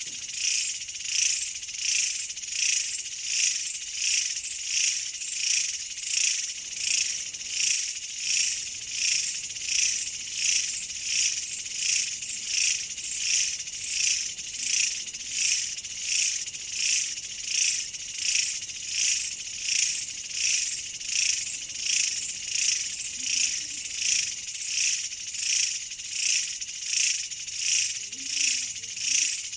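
Insects trilling in a dense, high-pitched chorus that swells and fades evenly about once a second.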